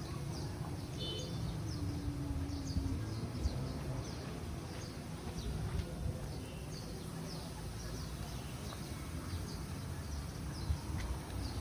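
Small birds chirping over and over in short, quick calls, over a steady low rumble of background noise.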